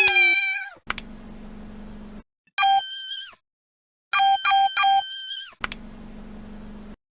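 Phone low-battery alert tones edited in as a kitten's meows. A falling tone comes at the start and another tone a few seconds in, then three quick beeps and a longer tone whose pitch sags at the end. A faint buzzing hum fills the gaps.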